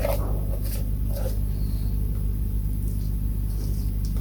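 A steady low machine hum, with a few faint light clicks and taps from small handling, as scoops of grain filler are measured into a container.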